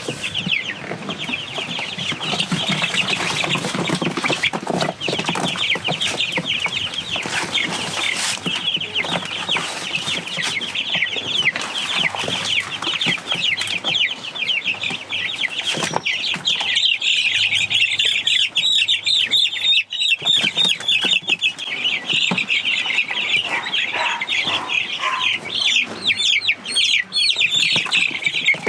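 A flock of week-old Cornish Cross chicks peeping constantly in high-pitched chirps, busier and louder from about halfway through, with scattered knocks and scuffling as they are handled into a box.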